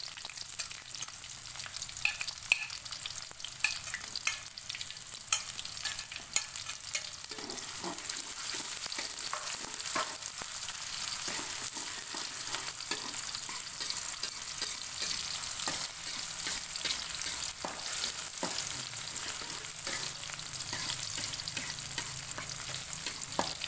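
Garlic and sliced onion sizzling in hot oil in a metal wok, with a metal spatula scraping and clicking against the pan as it is stirred.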